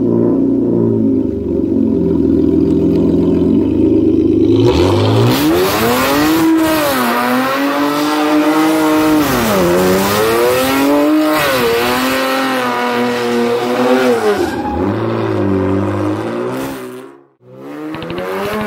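Straight-piped 3.6-litre V6 of a 2016 Chrysler 300 running at a steady speed for a few seconds, then revving up and falling back again and again in long rising and dropping swings. The sound cuts out briefly near the end, then returns.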